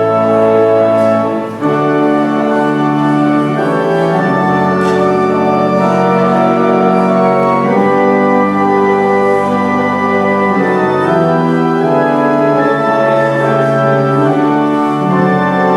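Organ playing slow, sustained chords that change every second or two, with a brief drop in level about a second and a half in.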